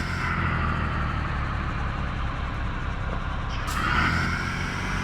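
Mercedes truck engine running steadily with road noise while driving, with a brief louder swell about four seconds in.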